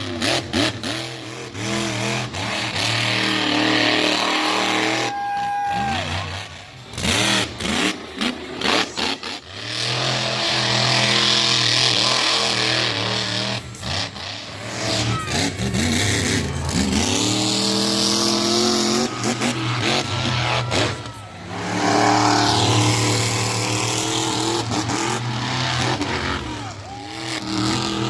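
Monster truck engines revving hard and dropping back again and again, the pitch climbing and falling with each burst of throttle, broken by many abrupt cuts and knocks.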